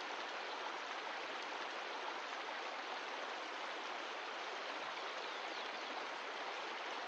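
Mountain stream of glacial meltwater rushing steadily over rocks, an even water noise.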